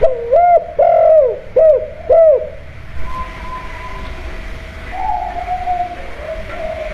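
Spotted dove cooing: four short, arched coo notes in quick succession in the first two and a half seconds, then a longer drawn-out coo around five seconds in.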